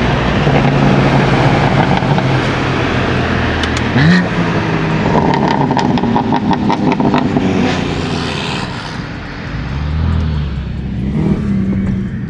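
Single-turbo BMW M3 CS engine pulling hard under acceleration, with a quick rise in pitch about four seconds in and a run of rapid crackles in the middle. The level drops near the end as the throttle eases off.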